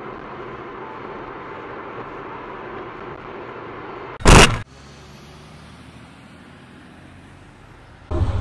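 Steady road and engine noise of a moving car, broken about four seconds in by one loud, short crash of impact. After it comes a quieter steady hum.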